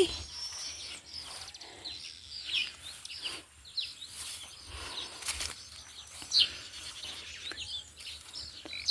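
Wild birds chirping and calling in short, high notes scattered throughout, with occasional rustling from vegetation.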